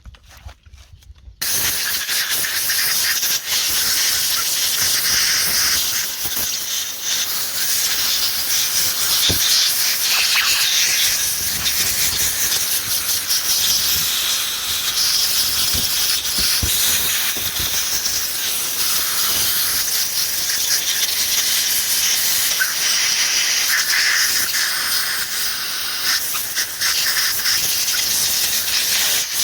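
A steady, loud hiss with a rough, scratchy texture, starting suddenly about a second and a half in after a near-silent start.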